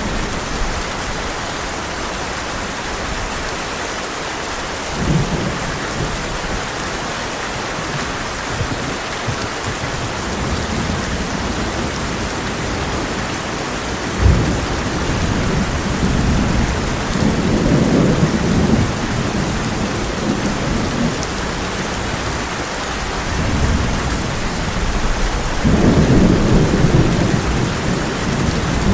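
Heavy rain drumming steadily on a tin roof, with thunder. A sharp crack comes about halfway through, followed by rolling rumbles, and a longer, louder rumble comes near the end.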